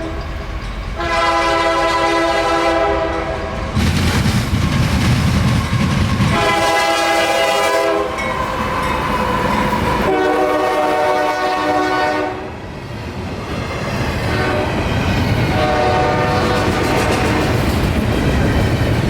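CSX freight locomotive's multi-chime air horn sounding a series of four long blasts as an intermodal train approaches and passes. The train's low rumble and rail clatter fill the gaps between blasts.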